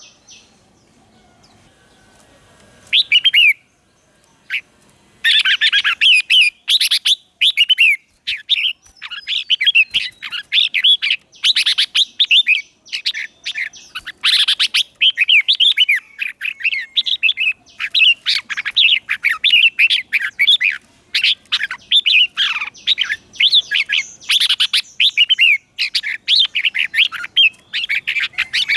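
Red-whiskered bulbul singing: a short phrase about three seconds in, then from about five seconds a fast, unbroken stream of short whistled notes.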